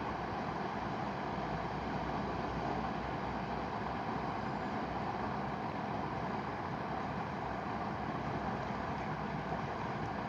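Mountain river rushing steadily, a constant even roar of flowing water.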